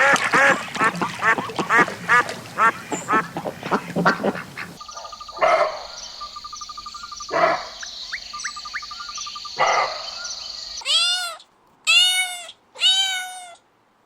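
Ducks quacking rapidly in a dense run of calls for the first few seconds, then a few scattered calls after a cut. Near the end, a cat meows four times, each meow rising and falling in pitch.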